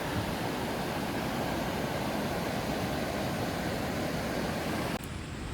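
Mountain stream rushing steadily into a rock pool. It drops off suddenly about five seconds in to a quieter, thinner hiss.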